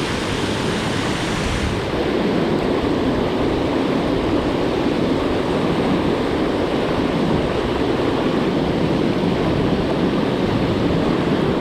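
Steady rushing of river water flowing below a dam, with no breaks or distinct events.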